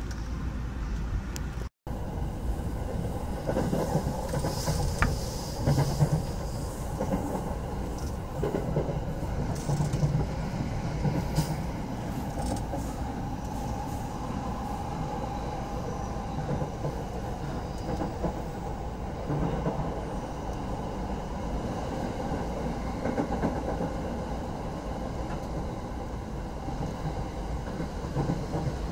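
Running noise inside a moving JR Ueno-Tokyo Line commuter train: a steady rumble of wheels on the rails with occasional louder knocks. The sound cuts out for a moment about two seconds in.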